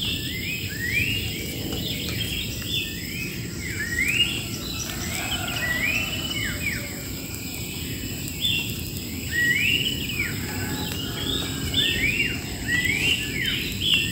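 Wild birds singing: many short whistled notes that rise and arch over, repeated and overlapping as from several birds. Under them runs a steady high insect drone and a low rumbling noise.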